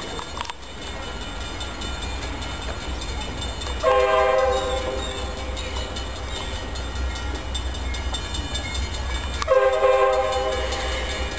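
Locomotive air horn sounding two blasts about five and a half seconds apart, each loudest for about a second, over a steady low rumble.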